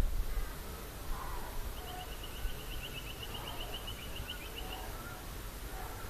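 A bird's trill: a rapid run of short, high notes at one steady pitch, lasting about three seconds, over a low rumble.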